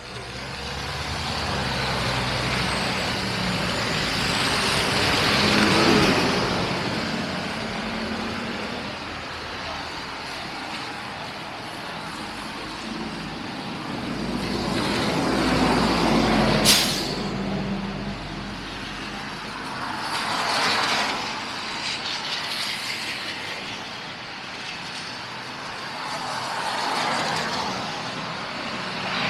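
Street traffic going by: several vehicles pass one after another, each a swell of tyre and engine noise that rises and fades. A heavy vehicle's engine rumbles under the passes early on and in the middle, and a brief sharp hiss comes about halfway through.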